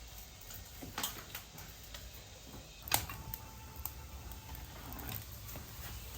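Sparse light clicks and knocks of kitchen clatter, the sharpest about three seconds in, over a low steady rumble.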